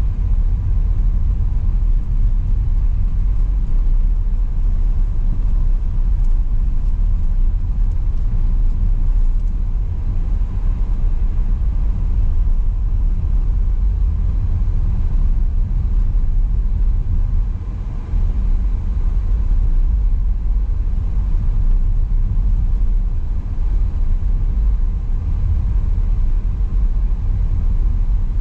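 Car driving: a steady low rumble of engine and road noise, dipping briefly a little past halfway.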